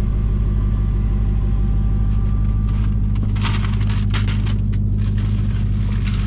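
Dodge Challenger Hellcat's supercharged 6.2-litre V8 idling steadily. About three and a half seconds in comes a second or so of rustling and crackling.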